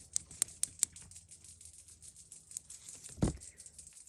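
Cicadas singing in a maple tree: a steady high-pitched buzz laced with irregular clicking. A short low thump comes just after three seconds.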